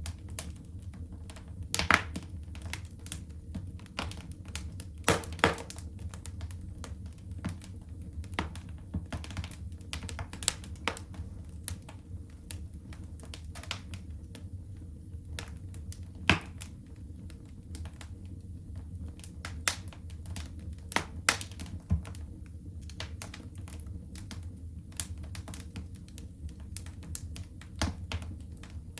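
Wood fire crackling in a fireplace: a steady run of small irregular snaps and ticks over a low rumble, with a few louder pops scattered through.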